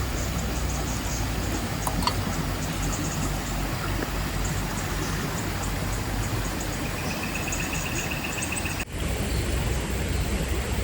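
Steady rush of a swollen forest river, with insects chirping high over it and a short pulsed insect trill near the end.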